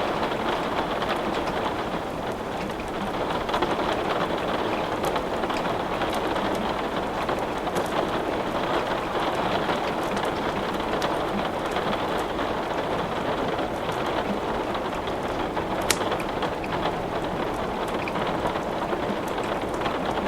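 Steady rain hiss, with scattered sharp crackles and pops of burning wood in a fireplace; one louder pop about sixteen seconds in.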